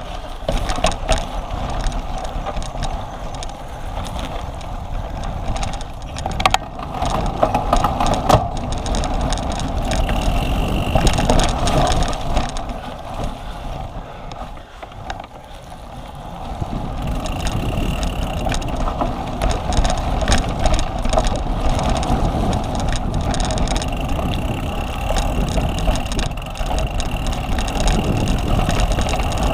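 Cyclocross bike being ridden at race pace: a steady rushing noise from the tyres and drivetrain, with a faint high whine that comes and goes. It eases off briefly about halfway through, then builds again.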